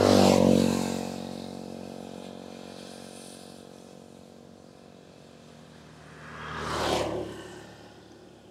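Road traffic: a motor vehicle passes close at the start, its engine loud and then fading over a couple of seconds, and a second vehicle passes about seven seconds in.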